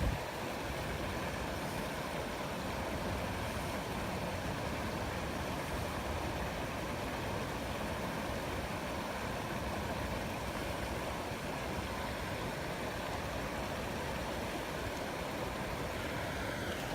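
Steady rush of moving water, an even hiss with no separate splashes or knocks.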